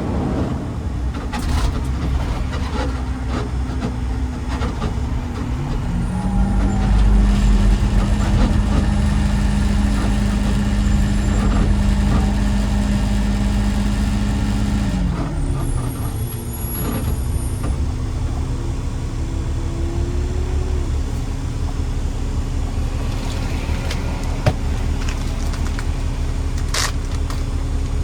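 Garbage truck's diesel engine running under way: the engine note climbs about six seconds in, holds for several seconds, then falls back and settles into a steady lower drone. A single sharp click comes near the end.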